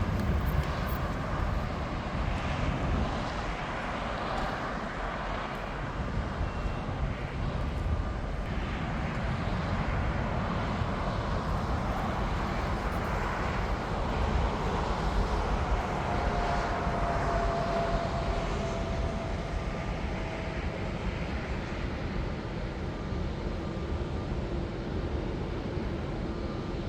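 Jet airliner engines running, a steady rush of engine noise with a faint whining tone in the middle.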